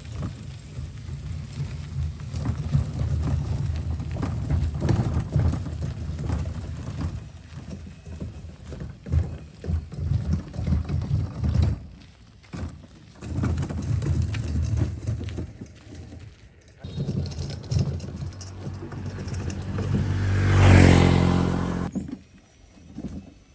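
Small 8.5 HP boat engine running on the water, its hum rising and falling with several drops. About 21 s in it grows to its loudest as the boat passes close, then fades quickly.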